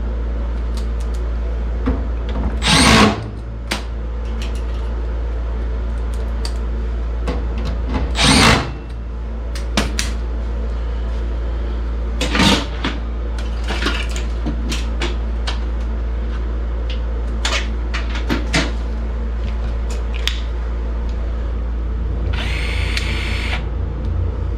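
Cordless power tool on sheet-metal furnace parts, run in short bursts: three loud ones about 3, 8 and 12 seconds in and a longer run near the end, with scattered metallic clicks and taps between, over a steady low hum.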